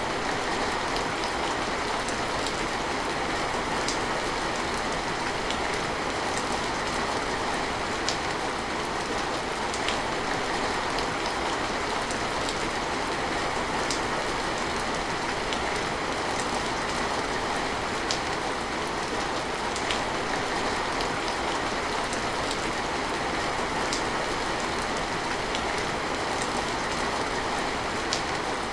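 Steady rain falling, a dense even hiss with scattered sharp drip ticks.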